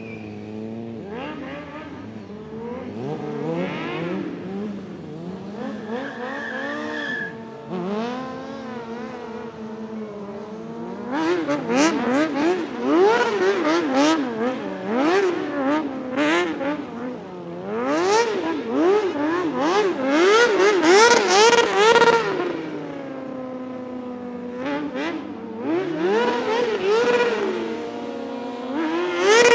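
Several motorcycle engines revving over and over, their pitches overlapping, rising and falling; they get louder about a third of the way in.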